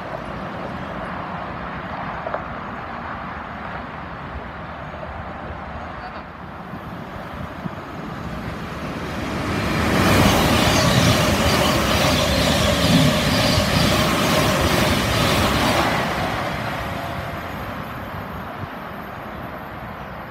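Thameslink Class 700 electric multiple unit passing through the station at speed without stopping. Wheels on rails and rushing air build up, stay loud for about six seconds with a steady whine, then fade away.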